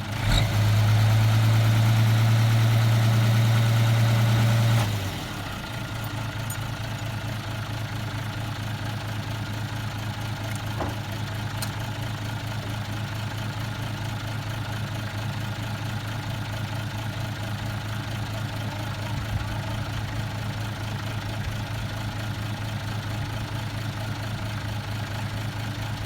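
A vehicle engine running steadily at idle, a low even hum. It is louder for about the first five seconds, then settles to a quieter steady idle.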